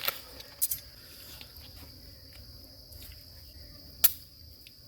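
Steady high-pitched chirring of insects, crickets or similar, with a few sharp clicks or knocks, the loudest about four seconds in.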